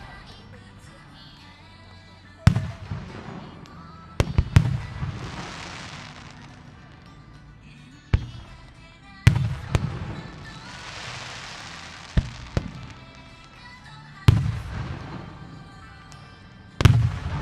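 Japanese aerial firework shells bursting over a lake: about nine sharp booms a few seconds apart, some in quick pairs, several trailing into a long fading crackle. Faint music runs underneath.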